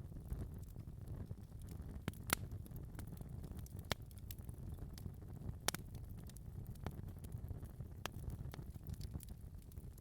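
Wood fire burning in a fireplace: a steady low rumble of flames with irregular sharp crackles and pops, the loudest about two and five and a half seconds in.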